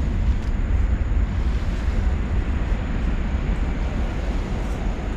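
Wind buffeting the microphone outdoors: a steady low rumble with no clear events.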